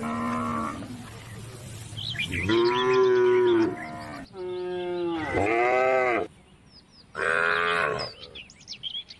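Cattle mooing: about five drawn-out calls in a row, each bending up and down in pitch, with short gaps between. Birds chirp faintly between the calls.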